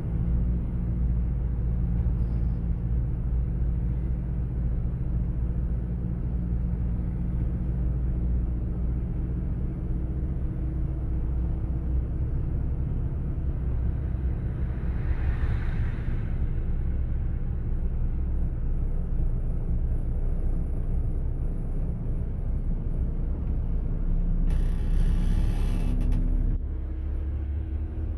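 Steady low engine rumble with a steady hum, a short hiss rising and fading about halfway through, and a louder rush of noise for about two seconds near the end that cuts off suddenly.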